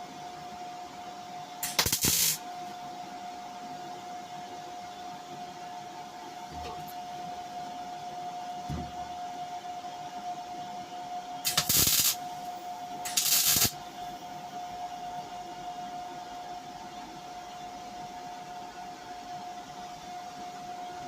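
Welder tack-welding a sheet-steel car wing: three short bursts of arc crackle, each about half a second, one about two seconds in and two close together midway. A steady high hum runs underneath.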